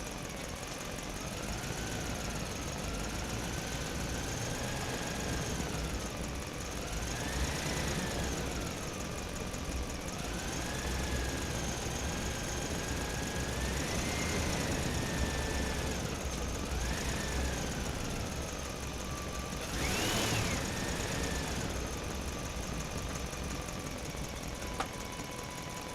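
Whine of a 370 electric motor and its four-wheel-drive gearing in an RC Land Rover Defender 90 built from a Bruder toy, its pitch rising and falling as the throttle is worked. The motor gives a sharp short surge about twenty seconds in.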